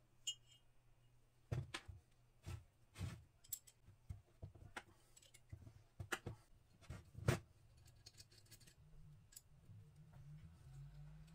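Irregular light metallic clicks and knocks of metal parts and tools being handled, about a dozen, the loudest about seven seconds in, over a faint low hum.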